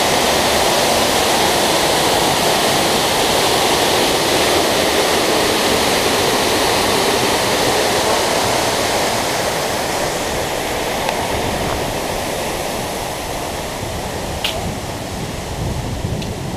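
Steady rush of a waterfall pouring into a pool, growing somewhat quieter over the last several seconds.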